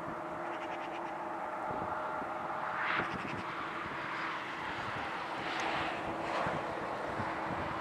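Jet airliner engines running as the aircraft taxis: a continuous rushing noise with steady low tones underneath, swelling a few times.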